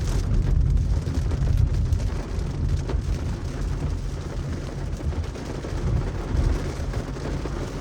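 Car cabin noise while driving in heavy rain: a steady low rumble of the engine and tyres on the wet road, with a haze of rain and spray on the car.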